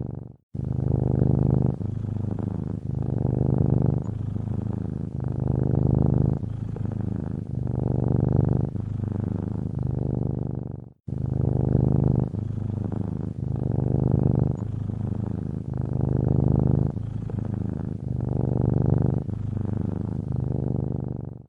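Domestic cat purring close up, a low, rhythmic rumble pulsing in cycles of about a second as the cat breathes in and out. The purr cuts out sharply to silence twice, just after the start and about halfway through.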